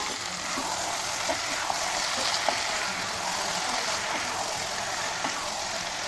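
Chicken and masala frying in oil in a pan: a steady sizzling hiss with small scattered pops.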